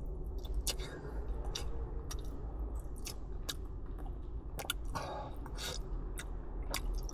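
Close-up chewing of takoyaki (octopus balls), with irregular sharp wet mouth clicks over a steady low hum.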